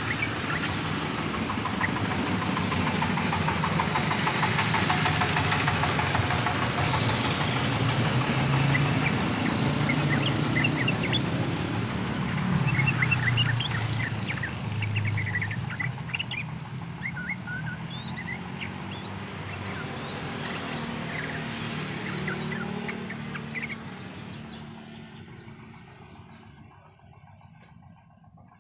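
Yellow-vented bulbul (trucukan) giving many short chirps and call notes over a loud, steady noise with a low engine-like drone. The drone fades away over the last few seconds, leaving the chirps.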